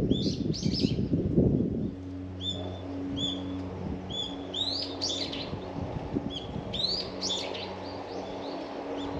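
Birds calling and chirping over and over, short high calls that sweep upward. A low rumble fills the first two seconds, then gives way to a steady low hum underneath.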